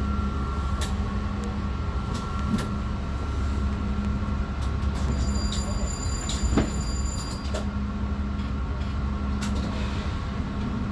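Long Island Rail Road M3 electric train running along the track: a steady low rumble and hum with scattered sharp clicks from the wheels. A faint high-pitched whine joins for a couple of seconds around the middle.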